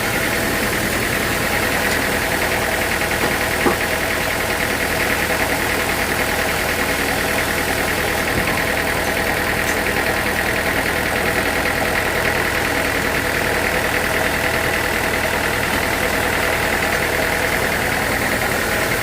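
Sawmill machinery running steadily, a constant drone with a high steady whine, and one sharp click about four seconds in.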